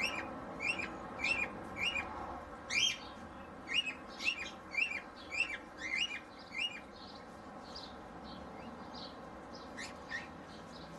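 A bird chirping in a quick, even series of short, identical chirps, about two to three a second, fading to a few faint, scattered calls after about seven seconds.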